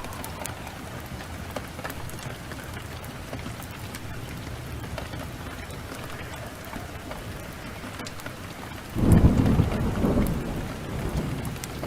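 Heavy rain falling steadily, then a clap of thunder breaks in about nine seconds in and rumbles on, dying away near the end.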